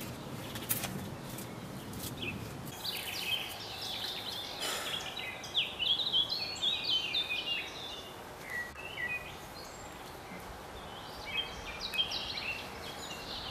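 Songbirds chirping in quick runs of short notes, in two spells with a pause between, over a steady background hiss.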